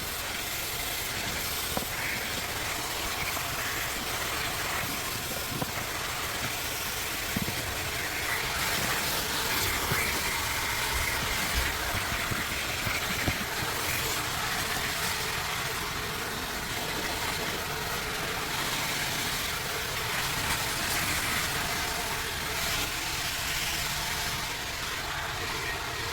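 Car-wash vacuum running steadily, its hose sucking at a car's interior, with a few light knocks as the nozzle moves.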